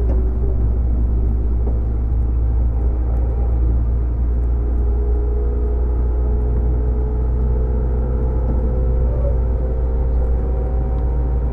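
Running sound inside a JR 205-series EMU motor car with externally-fanned MT61 traction motors: a steady, loud rumble of the train on the rails with a motor and gear whine, which climbs slowly in pitch in the second half.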